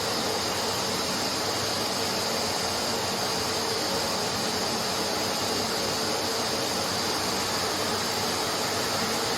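Hoover HL500PT vacuum cleaner running steadily at full power, an even rushing whine of the suction motor.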